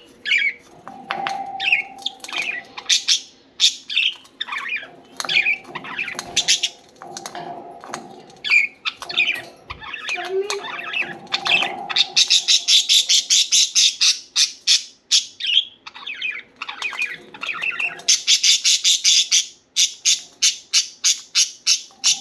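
Budgerigars chirping and squawking in a fast, busy chatter of short high calls, with two stretches of rapid, evenly repeated calls about halfway through and near the end.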